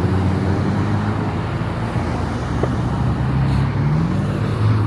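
Car engines running at low revs as cars move off slowly, one engine's pitch rising slightly near the end.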